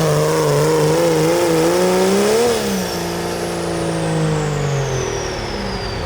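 Turbocharged diesel pickup truck's engine running hard under full load as it pulls the sled, with a high turbo whistle. The engine pitch wavers, jumps up briefly about halfway through, then holds and fades away near the end while the whistle slowly falls.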